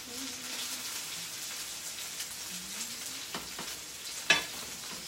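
Sausage and turkey bacon sizzling in skillets, with a spatula working in the pan and a sharp clack of the spatula against the pan about four seconds in.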